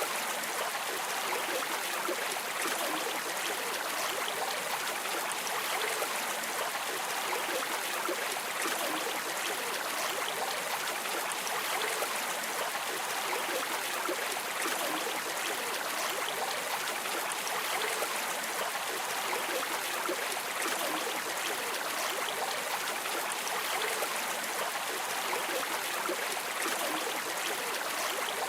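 Flowing river water streaming steadily, a continuous rushing and babbling with no change in level.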